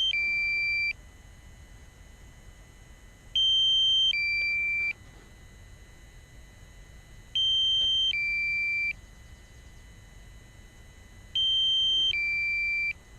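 Drone controller's low-battery warning beeping: an electronic two-note alarm, a higher note stepping down to a lower one, repeated about every four seconds. It signals that the aircraft battery has fallen to the warning threshold, around 30%.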